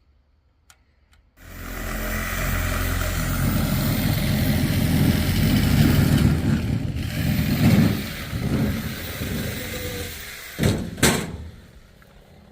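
An engine starts suddenly and runs loudly and steadily. Near the end come two sharp knocks.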